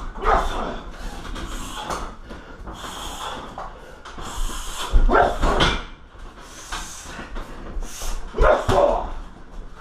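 Kicks and punches thudding on a 60 kg heavy bag, hardest about five seconds in and again near the end, with short sharp yelp-like cries over the hits.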